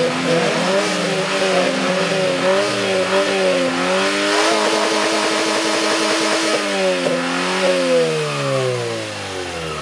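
Car engines revving hard side by side at a drag race start: the revs bounce up and down, climb and hold high for about two seconds, then fall steadily away near the end.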